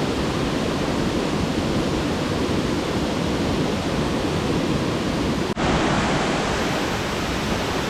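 Steady rushing roar of West Burton waterfall pouring into its pool, with a brief dropout about five and a half seconds in.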